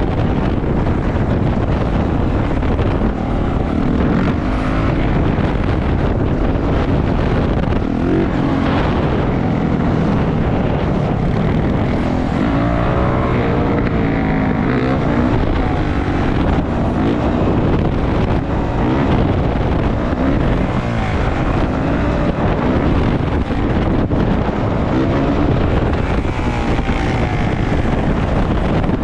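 A 450cc four-stroke dirt bike engine being ridden, revving up and falling back again and again through the gears, with heavy wind buffeting on the microphone.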